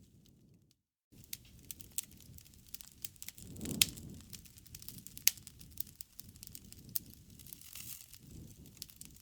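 Wood fire crackling and popping over a low rush of flames, with a couple of sharper pops about four and five seconds in. The sound drops out completely for a moment just before a second in.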